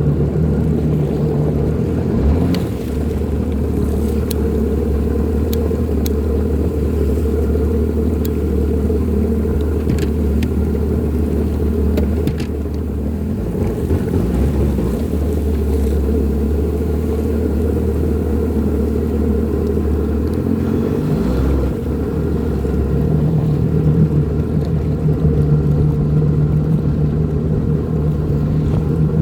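Jet ski engine running steadily under way, a continuous low drone whose pitch shifts a few times as the throttle changes.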